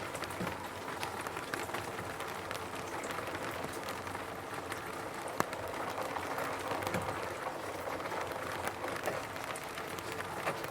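Rain falling on a roof: a steady patter of raindrops with many separate drop ticks scattered through it, one sharper drop about five and a half seconds in.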